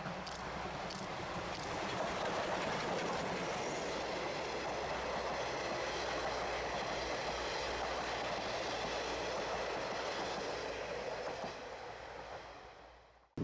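Steam-hauled passenger train (C58 239 and its coaches) running past on the rails: a steady rolling rush of wheels on track, with a few sharp clicks in the first two seconds, that fades away near the end.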